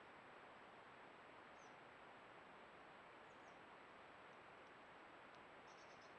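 Near silence: steady hiss with a thin high tone, under a few faint, high chirps of small birds, with a quick run of chirps near the end.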